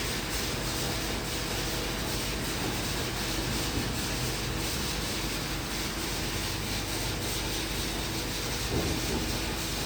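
Christ Vega rollover car wash gantry running mid-cycle: a steady rushing noise of the wash machinery with a low motor hum underneath.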